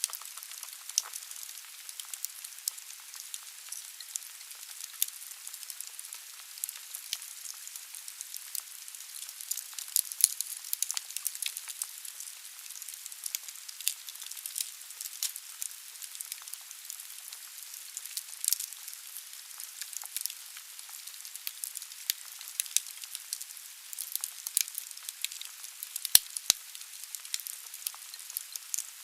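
Wood burning in a fireplace: logs crackling with frequent, irregular sharp pops over a steady hiss of the fire.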